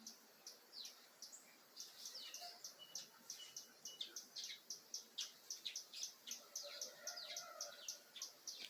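Many birds of mixed kinds chirping together: a faint, dense run of short, high, falling chirps, several a second, with a few brief steady whistle notes among them.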